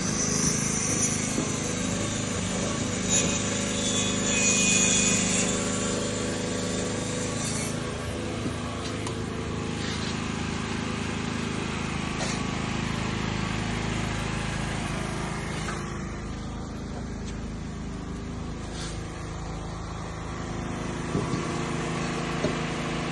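An engine running steadily, with added high-pitched noise over it for the first eight seconds or so.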